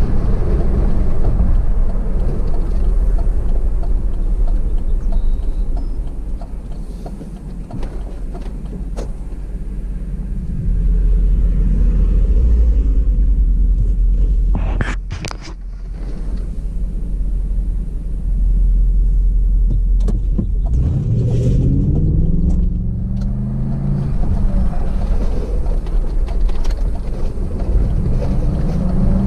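Car engine and road rumble, recorded from inside a moving car. A few short clicks come about halfway through, and the engine revs up and down several times about two-thirds of the way through.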